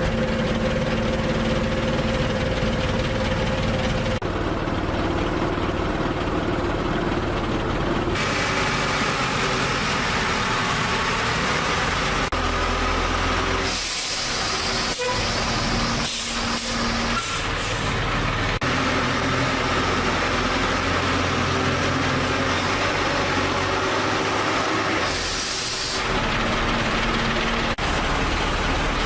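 Heavy truck engine running steadily, with stretches of hissing air. The sound changes abruptly several times, as one clip cuts to the next.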